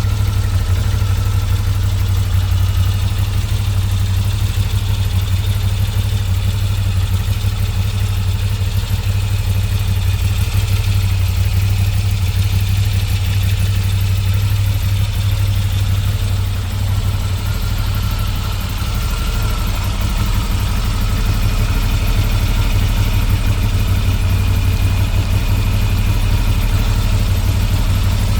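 Moto Guzzi V7 IV Stone's air-cooled transverse V-twin engine idling steadily, with a deep, even beat.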